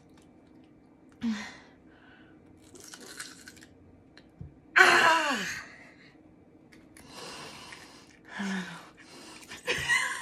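Crunching bites and chewing of a hard raw potato in several short spells. About five seconds in comes a loud voice sound that slides down in pitch.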